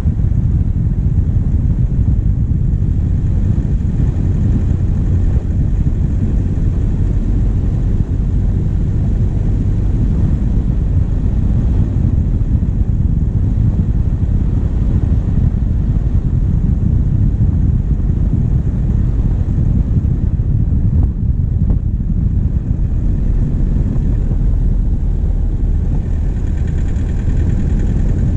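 Diesel engine of a vehicle running steadily, heard from right above it on the bonnet. The sound is a continuous deep drone.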